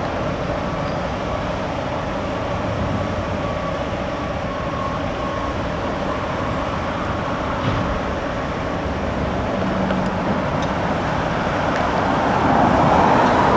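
Road traffic noise: the steady rush of vehicles on the street, with a faint steady tone in the first few seconds and a vehicle passing louder near the end.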